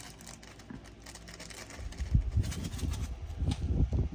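Handling noise: faint light clicks, then from about halfway through a run of dull low thumps and rubbing as things are moved about on the table.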